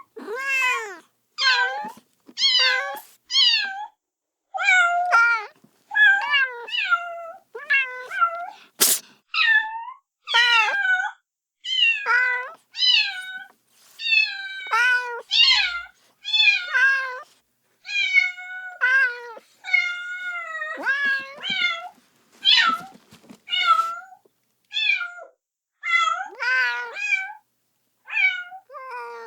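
Kitten meowing over and over, calling for its mother: short, high-pitched cries, roughly one a second, many rising then falling in pitch. A single sharp click about nine seconds in.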